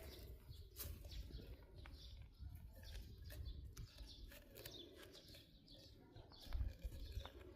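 Faint outdoor bird calls, including a dove cooing softly, with a few small clicks.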